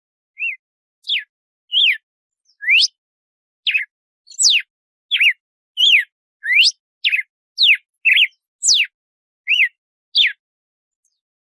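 Red-cowled cardinal (galo-de-campina) singing its 'açoite' song: a steady run of about fifteen clear whistled notes, each a quick rising or falling glide, one to two a second.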